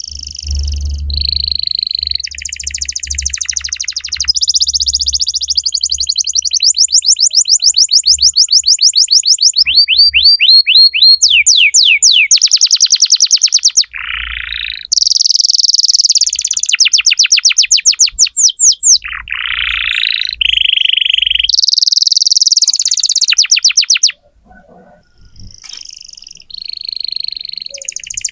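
Domestic canary singing a long, loud song of rapid trills, fast rolls of repeated notes and buzzy held phrases, with a brief pause near the end.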